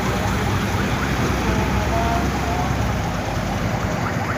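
Motorcycle riding on a highway: steady engine and road noise under heavy wind rush on the microphone.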